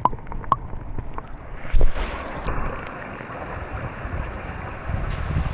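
A few water drips splashing, a single dull thump, then steady wind buffeting the microphone over moving water.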